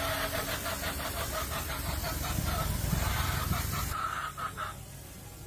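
Old tractor engine running with a fast, even beat, which stops abruptly about four seconds in.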